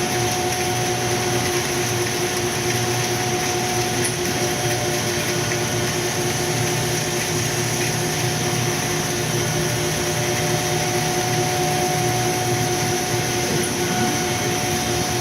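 CNC cutting machine running steadily as it cuts a Plasdeck foam decking sheet: a constant mechanical drone with an even hum.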